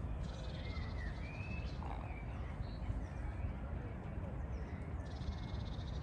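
Small birds singing in a park: short rising and falling chirps in the first second and a half, and a fast trill near the start and again near the end, over a low steady rumble.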